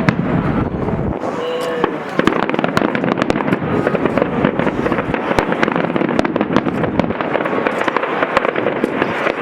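Fireworks display crackling: a dense stream of rapid small pops and snaps from crackling shells. A deep low boom dies away about a second in.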